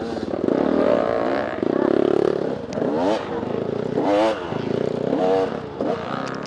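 Off-road racing motorcycle engine revving up and down repeatedly as the throttle is worked, with some clatter.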